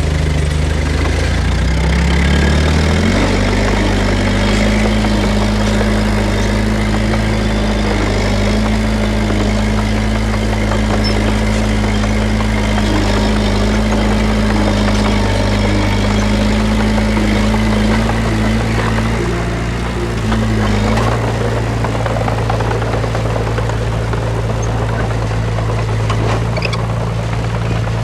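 Diesel engine of heavy earth-moving machinery running steadily. It revs up about three seconds in, holds its speed, and eases off about twenty seconds in.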